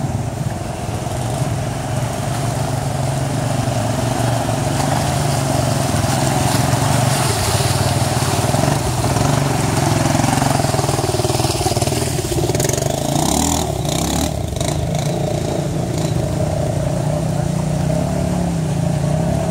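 ATV engine running steadily with some revving, with a short run of knocks about two-thirds of the way through.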